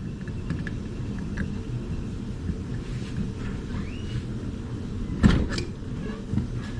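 Channel-lock pliers working on a seized lowrider hydraulic cylinder: light clicks and scrapes of metal, then two sharp knocks about five seconds in, over a steady low rumble. The knocks and scrapes come from a failed attempt to unscrew the stuck cylinder by hand.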